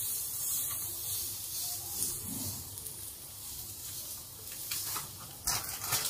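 Chopped vegetables sizzling in hot oil in a wok while semolina is poured in from a packet, a soft steady hiss. A few light clatters near the end.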